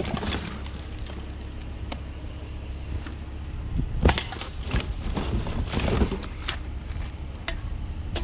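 Empty aluminium cans clattering and knocking as they are handled and sorted, with a few sharper clanks about halfway through, over a steady low rumble.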